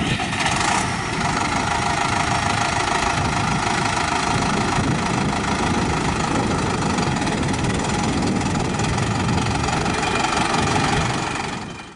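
Tractor engine running steadily, fading in at the start and fading out near the end.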